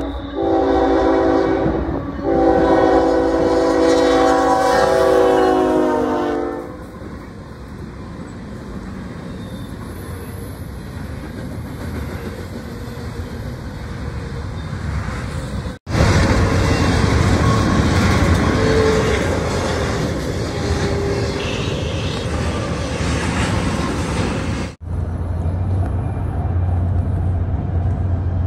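Freight locomotive's multi-note air horn blowing as it approaches a grade crossing, with a brief break about two seconds in; it stops about six and a half seconds in. After that comes the steady rumble and clatter of a long freight train rolling past, louder in the later stretches of double-stack intermodal cars.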